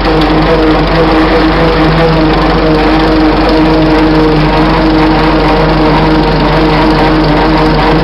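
1926 Fordson Model F tractor driving, its four-cylinder engine and worm-gear rear end making a loud, steady droning whine at an even pitch. The worm-gear rear end is the source of the noise the owner calls awful, typical of these tractors.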